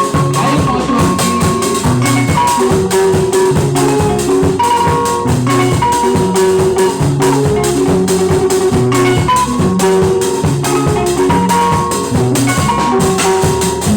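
Instrumental band music: a quick, steady drum and percussion beat under a bass line, with a lead instrument playing short held melodic notes.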